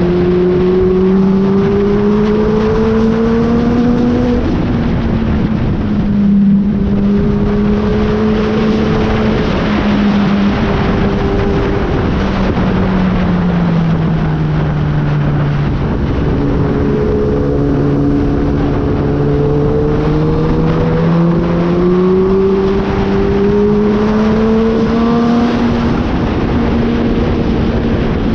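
Kawasaki ZX-10R sportbike's inline-four engine under way, with wind rush over it: the engine pitch climbs, drops at a gear change about four seconds in, sinks as the bike slows around the middle, then climbs again through another shift.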